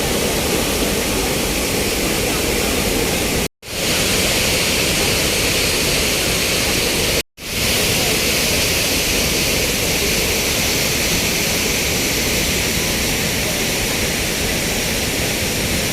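Close-up steady rush of a large waterfall, Athirappilly Falls, a dense, even wall of falling water, cut to silence twice for a split second about three and seven seconds in.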